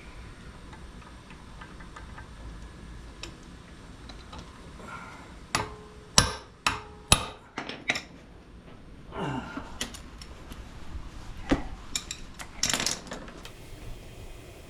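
Metal tools knocking and clanking against each other while work is done on an outboard motor: a quick run of sharp clanks, some with a brief ring, then a scrape, a single knock and a short rattle.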